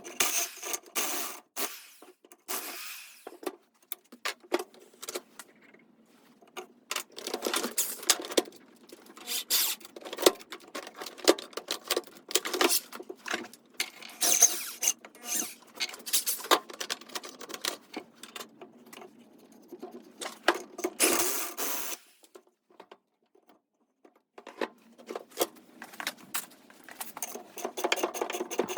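Hand work on metal parts and tools: a series of clinks, knocks and scrapes from making a flywheel truing stand. The sounds stop dead twice, about three seconds in and again near the end, as one short clip cuts to the next.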